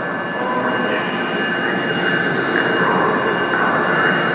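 Electric-locomotive-hauled train pulling slowly along the platform track, its wheels rumbling on the rails and growing slightly louder as it approaches. A high, steady whine sits over the rumble.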